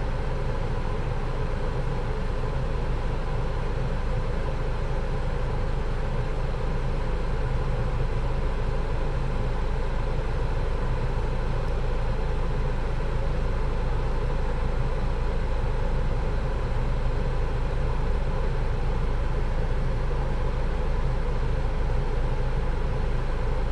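2025 Honda Civic running, a steady low rumble with no change in speed or load.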